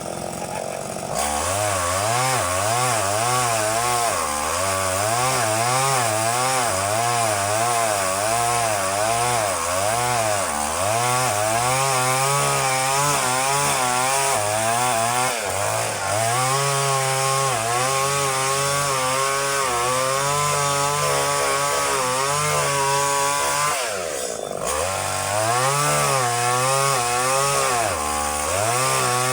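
Chainsaw running at high revs as it cuts date palm fronds, its pitch rising and falling about once a second. About three-quarters of the way through it drops briefly toward idle, then revs up again.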